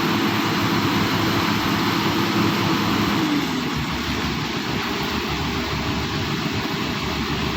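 Excavator's diesel engine running with a steady hum, its pitch falling and the sound easing a little about three seconds in as the engine comes off load.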